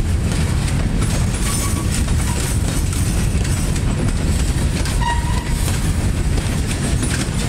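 Open-top freight cars rolling steadily past: a continuous low rumble of steel wheels on rail, with frequent clicks as the wheels pass over rail joints.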